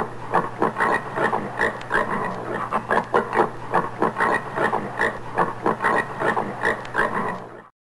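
Common warthog grunting in a quick run of short grunts, about three or four a second, which stops suddenly near the end.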